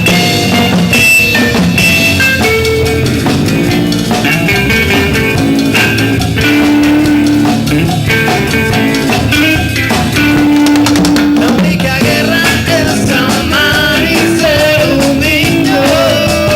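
Live band playing a song, with a drum kit keeping a steady beat under pitched instruments.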